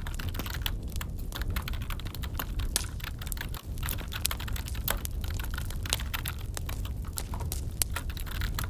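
Computer keyboard typing: fast, irregular keystrokes, layered over the crackle of a wood fire in a fireplace and a steady low rumble.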